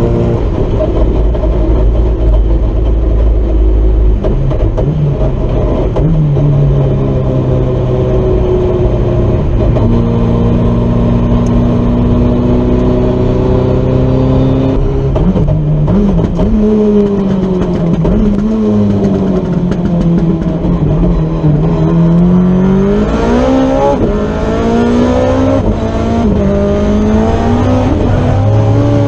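Honda S2000 drift car's engine running hard at high revs, its pitch held fairly steady at first, then rising and falling again and again in the second half as the throttle is worked through a drift.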